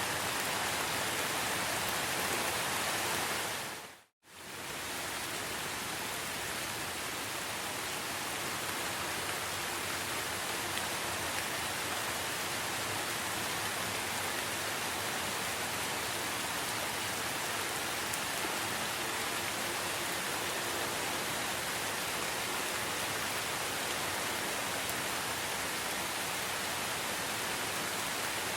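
Steady rain falling in a forest, an even hiss of drops. About four seconds in it fades out to a moment of silence and quickly fades back in.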